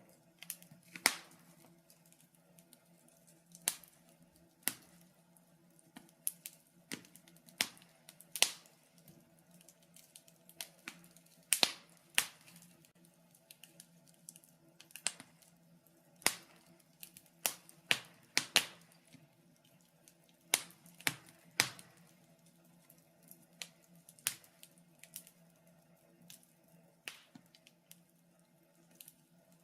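Wood fire in a fireplace crackling: sharp, irregular pops and snaps, some louder than others, over a faint steady low hum.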